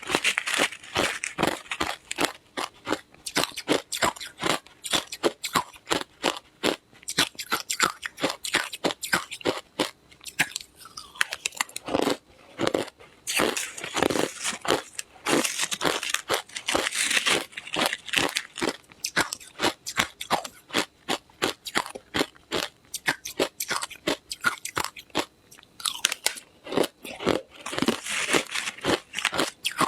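Ice being crunched and chewed close to the microphone: rapid sharp cracking crunches, several a second, thickening into dense bursts of crunching at times.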